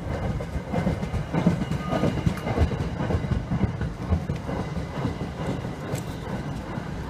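Passenger rail coaches passing close by: a steady low rumble with wheels clacking over the rail joints, the loudest knocks in the first few seconds.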